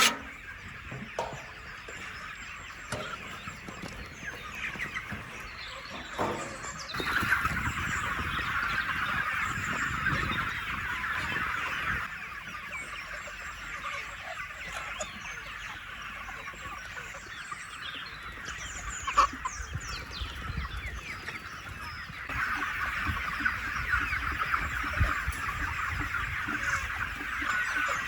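A large flock of chickens clucking and calling together in a dense, continuous chorus that grows louder for a few seconds twice.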